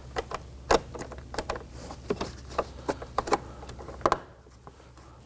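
Plastic door trim panel being handled and pressed into place: a run of light clicks and taps, with sharper clicks about a second in and again near four seconds.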